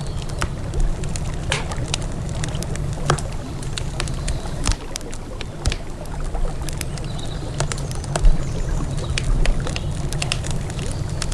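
Wood campfire crackling, with irregular sharp pops and snaps at uneven intervals, over a steady low rush of flowing river water.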